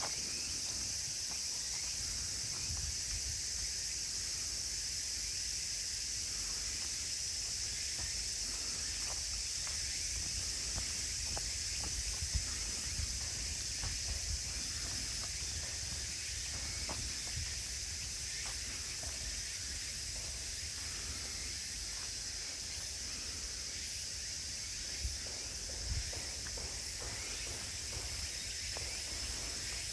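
Steady, high-pitched chorus of late-summer insects in woodland, with faint footsteps along the trail.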